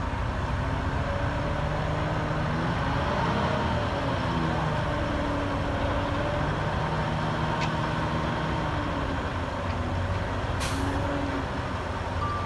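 Heavy diesel engine of earthmoving machinery running steadily, its pitch rising and falling as the load changes, with a short burst of air hiss about two-thirds of the way through.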